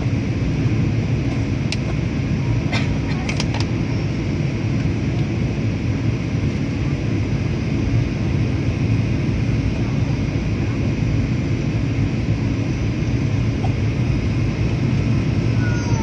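Steady engine and airflow noise inside an airliner's passenger cabin in flight, with a few faint clicks about three seconds in.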